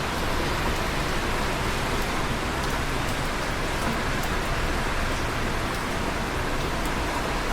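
Steady rain falling on a surface, a constant hiss with scattered faint drop ticks.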